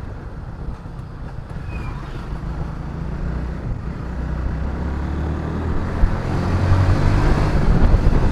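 Motorcycle engine running while riding, with wind noise on the microphone; it grows steadily louder through the second half.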